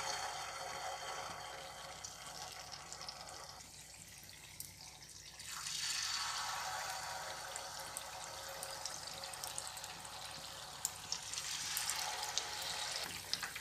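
Batter-coated paneer pieces sizzling as they deep-fry in hot oil. The sizzle swells again about five and a half seconds in as another piece goes into the oil, with small crackles near the end.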